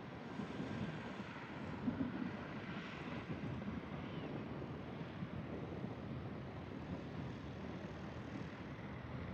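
Steady road and wind noise from a moving vehicle, a rumbling hiss with wind buffeting the microphone.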